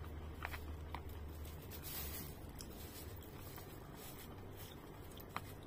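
Quiet eating sounds: a person chewing a mouthful of food with a few faint clicks and scrapes, over a steady low hum.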